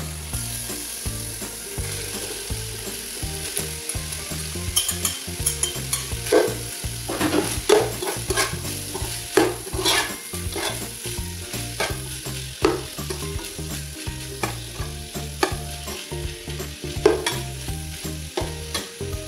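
Minced chicken and diced hotdog sizzling as they fry in a pan, with a spatula stirring through them. From about five seconds in, the spatula scrapes and clicks repeatedly against the pan.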